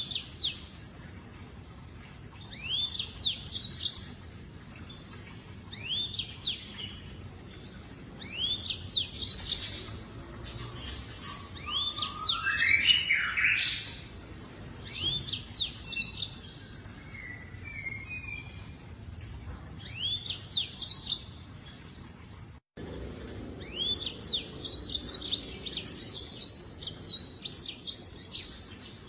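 Lemon-breasted canary singing: groups of quick, arching chirps repeated every couple of seconds, with a fast trill of notes near the end.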